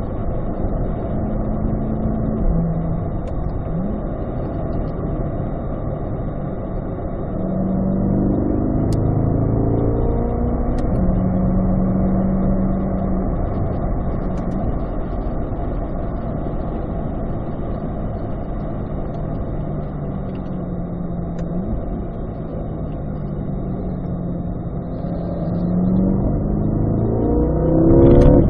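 Corvette V8 engine at speed on a race track, heard from inside the cabin over road and wind noise. It pulls and holds steady through the middle, eases off, and then revs rising in pitch near the end as it accelerates hard in third gear.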